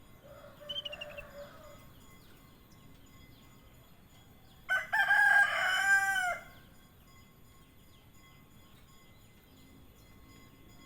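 A rooster crows once, loud and drawn out, about five seconds in, its call bending down at the end. A fainter bird call with a short high trill comes near the start, and faint small-bird chirps run throughout.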